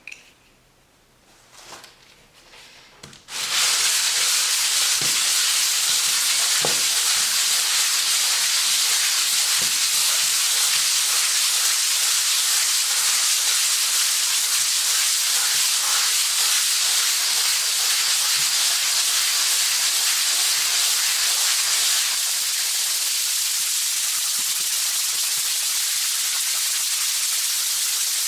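120-grit sandpaper on a hand sanding block rubbing over dried plaster filler on a wall, a steady high hiss that starts suddenly about three seconds in and drops a little in level near the end.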